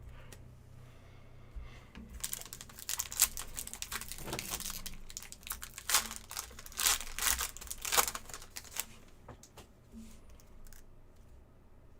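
Foil trading card pack wrapper being torn open and crinkled. It gives a dense run of sharp crackles from about two seconds in until about nine seconds in, with lighter rustling before and after.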